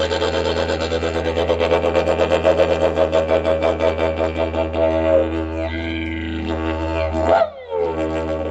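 A low, didgeridoo-like drone with a stack of shifting overtones that pulse rhythmically. It breaks off briefly with a short rising glide near the end, then resumes.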